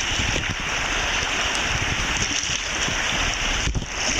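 Whitewater of river rapids rushing steadily around a kayak, with wind buffeting the microphone.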